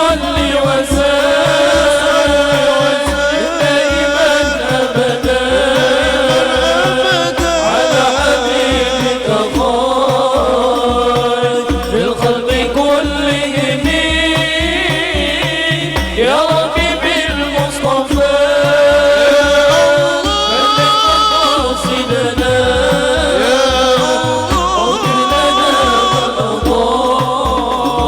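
Islamic devotional sholawat music: a wavering, melismatic sung melody over a steady, driving drum rhythm.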